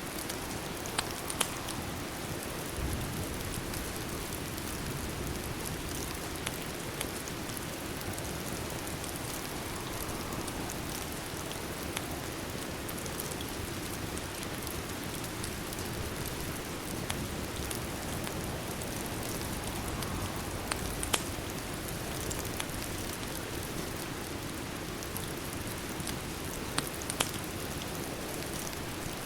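Steady rain, an even hiss, mixed with a fireplace whose sharp crackling pops break through a dozen or so times.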